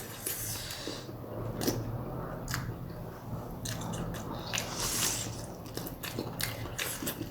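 Biting and chewing of big momo dumplings: irregular short mouth clicks and smacks over a low steady hum.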